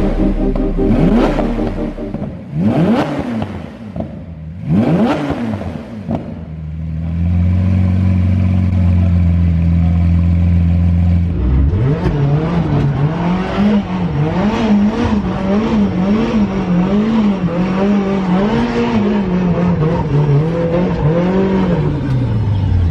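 Car engine being revved: three quick sharp revs in the first few seconds, then a steady idle. From about halfway, the revs rise and fall over and over.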